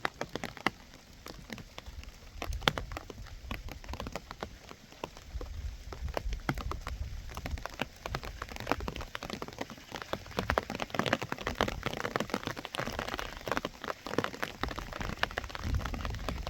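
Rain falling, a dense patter of drops striking a surface, growing heavier about halfway through.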